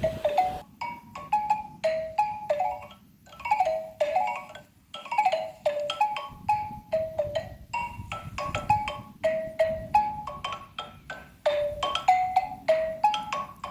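Xylophone played with mallets: quick runs of short struck notes that step downward in little repeated phrases, several notes a second, with brief pauses between phrases.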